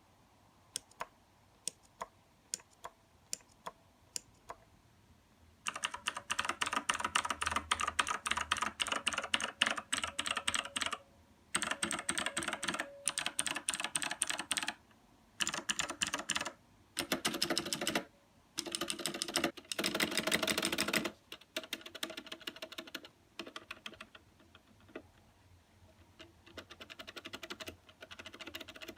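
Typing on an Aukey KM-G6 mechanical keyboard. It starts with a handful of single key presses, then fast bursts of typing from about six seconds in with brief pauses between, and lighter typing near the end.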